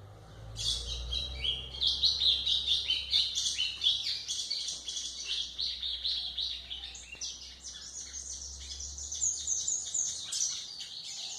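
Golinha (white-throated seedeater) singing a fast, continuous twittering song of rapid chirps, starting about half a second in.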